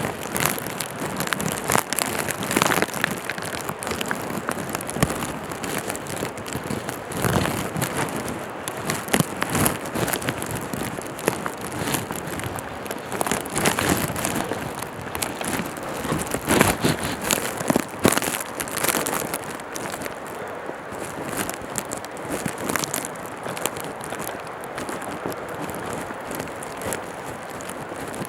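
A hiker's footsteps and rustling on a rocky mountain trail: irregular crunching and crackling steps every second or two, over a steady rushing noise.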